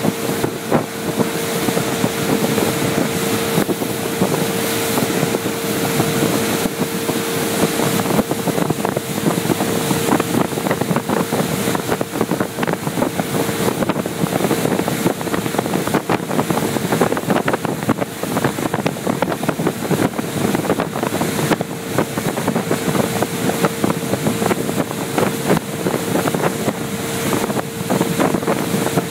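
Motorboat running steadily at speed, its engine holding one steady droning tone under water rushing past the hull, with wind buffeting the microphone.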